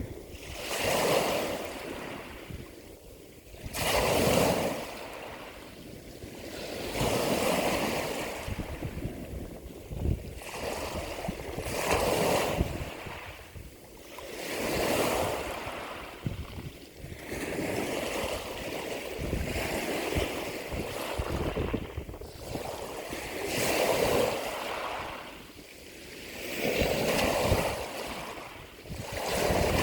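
Ocean waves breaking and washing in, one swell of surf about every three seconds, each building and then falling away.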